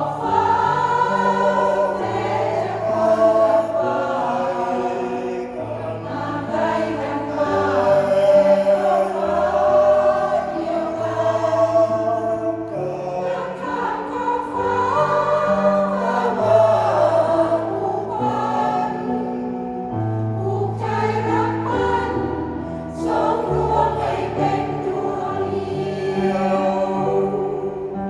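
A senior choir of older singers performing a piece together, holding long sustained notes over a lower part that moves in steady steps.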